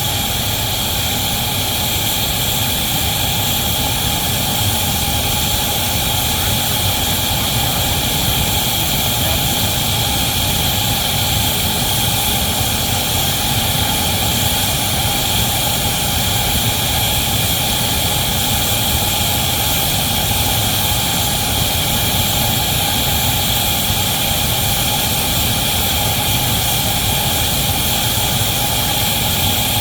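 Steady, unchanging running noise of a locomotive and heavy train, with a few fixed whining tones over it and no separate beats or knocks.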